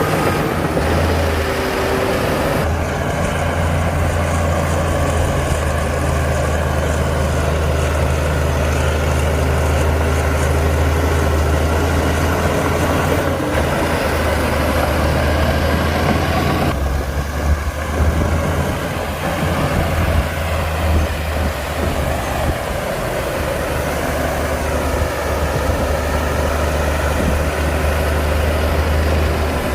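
Heavy diesel engine of earthmoving machinery running steadily with a deep drone. The sound shifts abruptly about 3 seconds and 17 seconds in.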